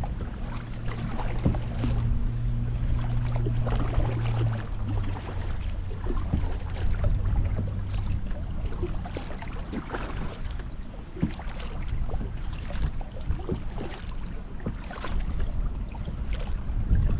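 Kayak paddle strokes dipping and splashing in shallow water, with water dripping off the blades in irregular splashes. A low steady hum runs underneath and fades out about halfway through.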